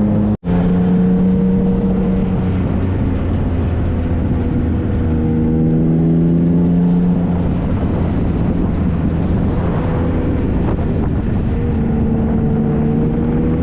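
Triumph Trophy SE's 1215 cc three-cylinder engine running while riding, its pitch sliding down and back up several times with the throttle. The sound cuts out for an instant about half a second in.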